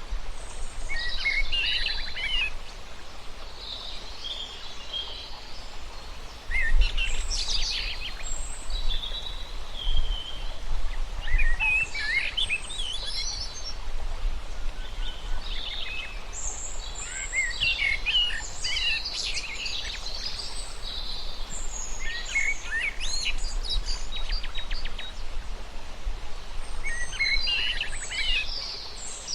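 Songbirds singing, short phrases of quick high chirping notes recurring every few seconds, over a steady low rumble and hiss of outdoor background noise.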